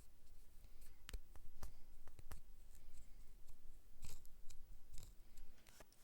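A string of irregular sharp clicks and short scrapes from small metal parts being handled and worked by hand, loudest about four seconds in.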